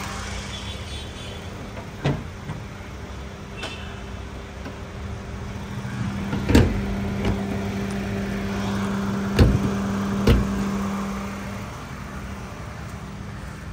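Honda Amaze's 1.2-litre four-cylinder petrol engine idling with a steady, smooth hum that stops near the end. A few sharp knocks fall over it, three of them loud in the second half.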